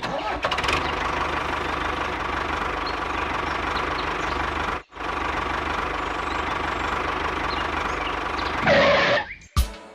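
Small motor running steadily, cutting out for a moment about halfway through and picking up again.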